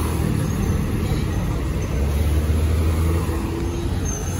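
Car engine running at low revs, a steady low drone that grows a little louder about two seconds in, over street noise.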